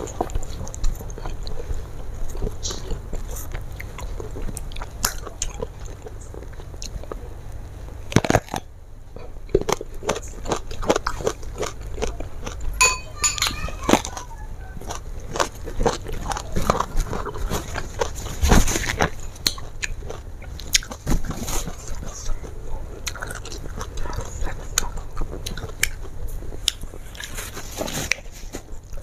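Close-miked eating sounds: wet chewing with many small sharp crunches as a raw round green eggplant is bitten and chewed. The crunching comes thickest through the middle stretch.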